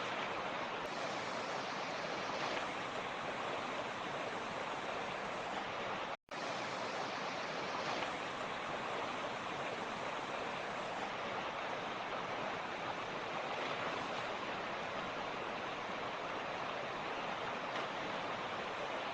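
Mountain stream flowing, a steady rush of water with no change in level, broken only by a split-second dropout about six seconds in.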